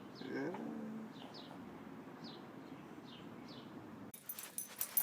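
A small bird chirping: short falling chirps, about two a second. A brief animal call rises and falls about half a second in. Just before the end it gives way suddenly to clattering, jingling clicks.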